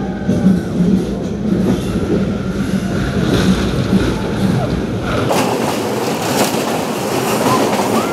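Passenger train carriage running along the track, heard from its open door: a steady running noise with low rumble. About five seconds in, the sound changes abruptly and the low rumble drops away.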